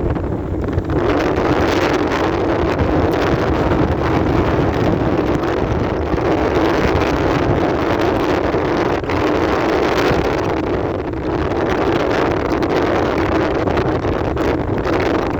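Strong wind rushing steadily over the microphone in a snowstorm, with small lulls.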